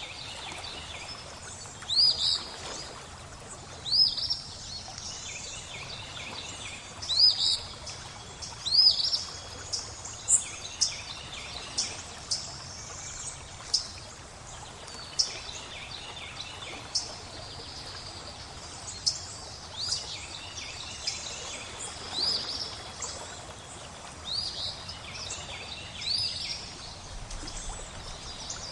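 Birdsong over a steady hiss of flowing water: a bird repeats a short sweeping call every second or two, loudest in the first ten seconds or so, with lighter chirps scattered between.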